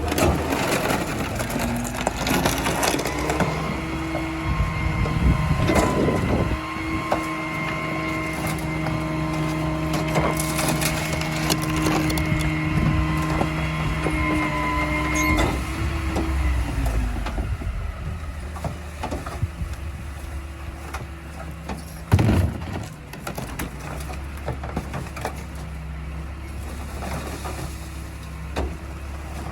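Garbage truck packing tree branches: a steady mechanical whine over the engine's rumble, with wood cracking and snapping as it is crushed. The whine stops about halfway through, leaving the engine running, and one sharp crack comes later.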